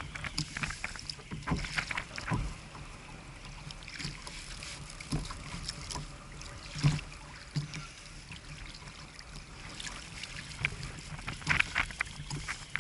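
Water lapping and splashing against a kayak hull, with scattered knocks and taps, the loudest about seven seconds in.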